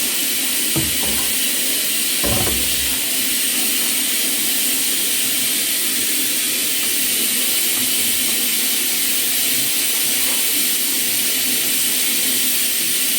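Hot cooking oil sizzling steadily in a pan as food fries, with two low knocks in the first few seconds.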